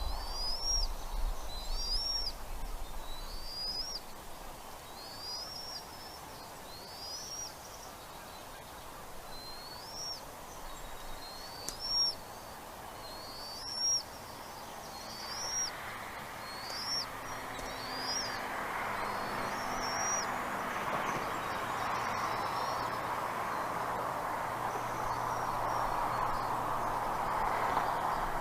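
Bald eagle calling a series of thin, high whistled notes, about one a second, each sliding up then dropping, dying away after about twenty seconds. From about halfway a steady rushing noise builds up.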